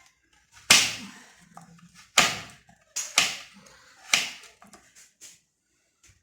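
Knife chopping fruit on a cutting board: about five sharp chops, irregularly spaced, with quiet between.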